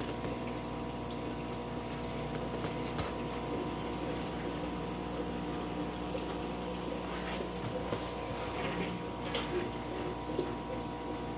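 Water in a large fish tank sloshing and trickling as a fish net is worked through it, over a steady electrical hum, with a few small splashes.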